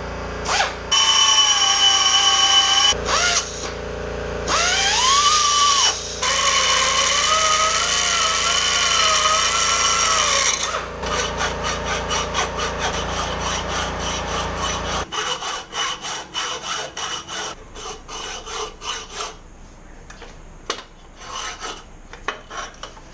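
A cutoff tool whines as it cuts into an aluminium jet ski exhaust pipe, its pitch rising and dipping under load; the tool clogs with aluminium and grabs. After about ten seconds it gives way to a hacksaw, with steady back-and-forth strokes through the metal.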